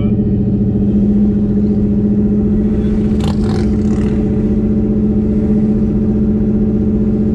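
Car engine running steadily at low cruising speed, heard close up from the hood, with a deep even drone that holds one pitch. A few brief sharper noises stand out about three to four seconds in.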